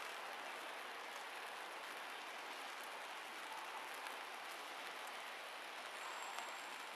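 Light, steady drizzle falling on a wet paved plaza: an even patter and hiss of raindrops, with a single light tick near the end.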